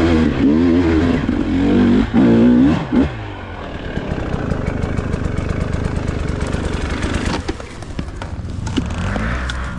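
Dirt bike engine blipped up and down in a few short revs. About three seconds in it drops to a low, uneven, rapid idle.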